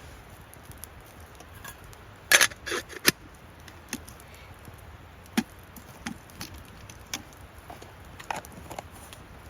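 Scattered sharp knocks and clicks, the loudest three in quick succession about two and a half to three seconds in, then lighter ones every second or so.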